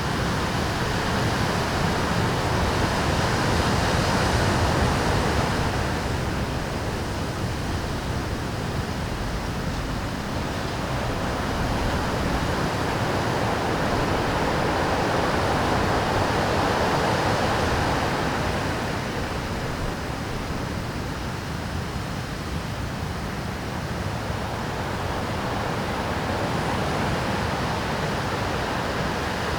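Rough Pacific surf breaking and washing over rocks in a continuous rushing roar that swells and eases every ten seconds or so, louder about four seconds in and again midway.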